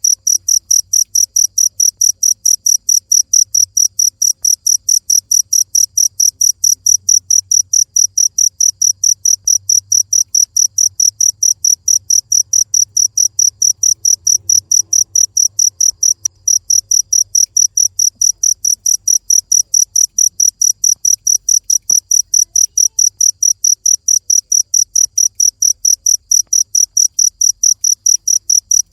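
Cricket chirping in a steady, even rhythm of high-pitched chirps, about four a second.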